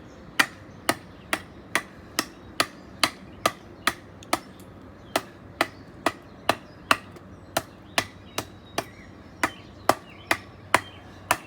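Damascus Bowie knife chopping into a hard wooden branch: a steady run of sharp blade strikes, a little over two a second.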